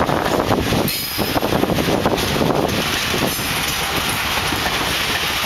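A freight train's open wagons rolling past at close range, with a steady, dense clatter of steel wheels over the rails.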